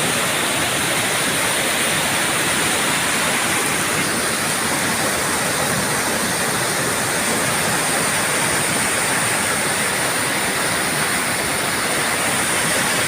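Fast mountain river rushing steadily through a river-regulating dam, a constant, even rush of water with no breaks.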